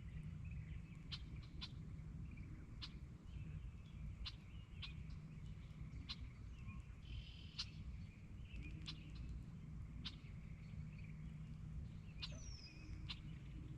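Birds calling around a lake: scattered short chirps and chips, with one falling whistle near the end. Underneath is a steady low rumble.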